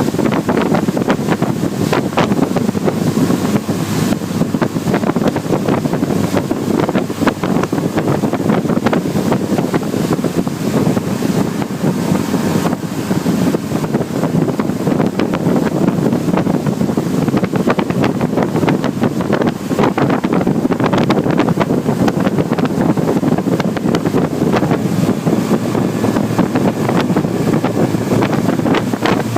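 Wind buffeting the microphone: a loud, constant rushing noise with frequent gusts.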